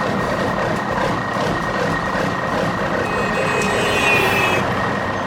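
A truck engine running steadily, with a steady high-pitched tone over it; a fainter higher whine joins about three seconds in.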